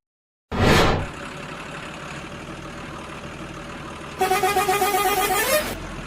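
Vehicle sound: a short loud burst, then a steady engine-like running noise, and near the end a horn-like pitched tone lasting about a second and a half that bends upward just before it cuts off.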